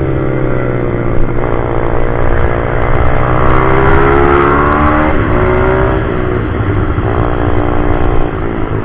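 Pit bike's small single-cylinder four-stroke engine revving as it is ridden hard around a track. The pitch climbs under throttle, drops sharply about five seconds in, then rises in steps again.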